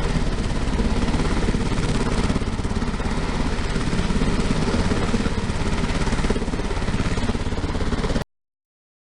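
A UH-60M Black Hawk helicopter running: steady turbine and rotor noise, heavy in the low end. It cuts off abruptly about eight seconds in.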